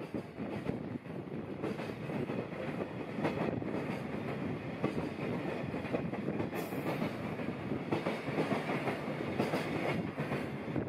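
A JR freight train's empty container flat wagons rolling past close by, the wheels clacking over the rail joints in a steady clatter. The last wagon passes near the end.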